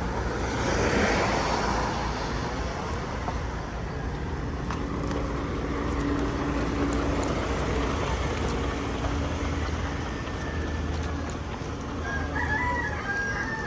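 Steady vehicle engine and road rumble, with a rooster crowing once near the end.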